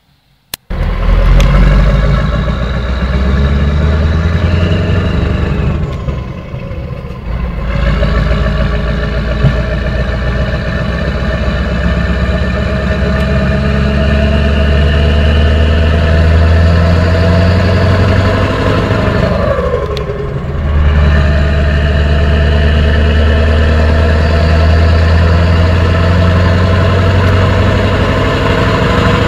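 Scania 144-530's 14-litre V8 diesel running loud and steady, cutting in suddenly just after the start. It eases off briefly twice, about six seconds in and again around twenty seconds, with the pitch falling before it picks back up.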